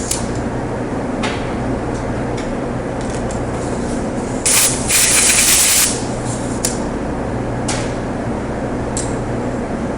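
A short hiss of compressed air lasting about a second and a half near the middle, over a steady low shop hum with a few light taps.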